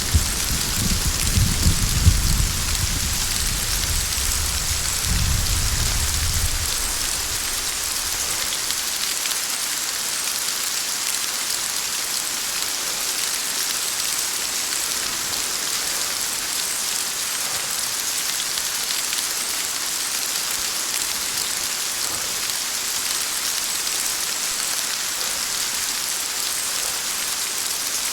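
Steady heavy rain, an even hiss of drops. A low rumble of thunder under it at the start dies away after about seven seconds.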